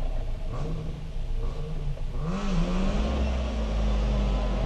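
Rally car engine heard from inside the cabin, blipped a few times off idle. About two seconds in the revs rise and hold at a steady higher pitch, with a low rumble and a hiss over it.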